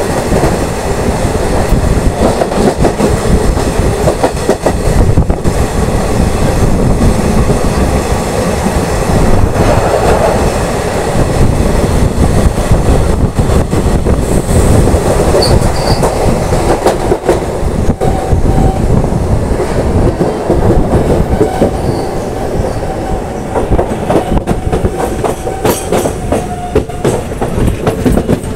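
Loud rushing rumble and clickety-clack of steel wheels over rail joints as a train of red-and-grey passenger coaches runs past close alongside a moving local train, heard through its open door. A thin steady wheel squeal joins in about two-thirds of the way through, and the noise drops off right at the end as the passing train clears.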